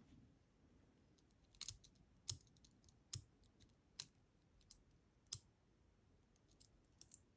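Faint, irregular small metal clicks and taps as thin discs and spacers are worked out of a dismantled DOM Diamant disk detainer lock, about half a dozen separate clicks with quiet between them.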